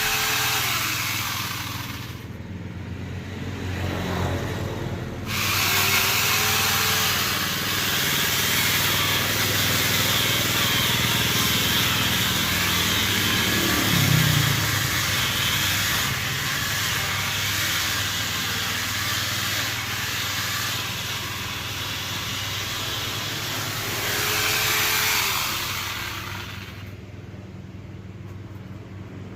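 Angle grinder fitted with a chainsaw adaptor cutting wood: a loud, rough whine from the motor and chain. The harsh high end drops away twice for a couple of seconds, once near the start and once near the end, as the chain comes off the cut.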